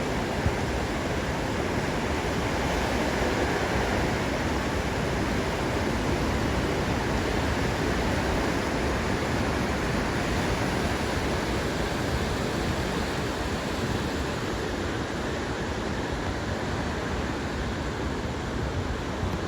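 Ocean surf breaking, a steady, continuous wash of noise with no distinct single wave crashes.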